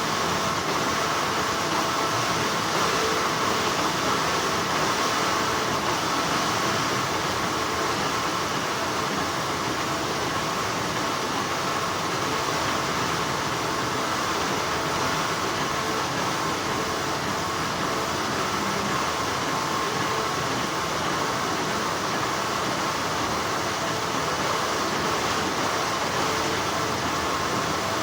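Continuous hum of textile factory machinery: an even, unchanging mechanical noise with a steady high tone running through it.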